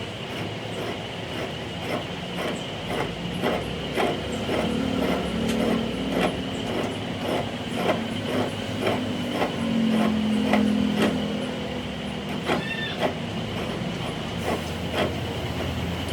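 A workshop machine running steadily, with irregular clicks and knocks throughout.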